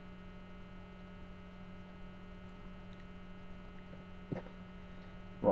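Steady electrical mains hum in the recording, with one short click a little past four seconds in.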